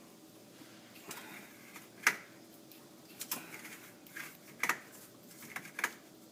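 Irregular sharp clicks and light knocks, about half a dozen over several seconds, from working an oil filter wrench on a loosened oil filter.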